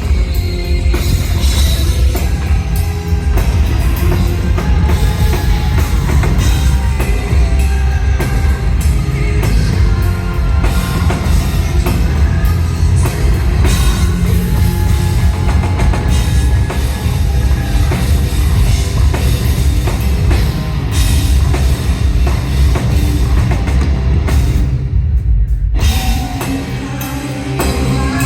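Hard rock band playing live: a drum kit and guitars over a heavy low end, loud and continuous. Near the end the upper range drops out for about a second, leaving only the low end, before the band comes back a little quieter.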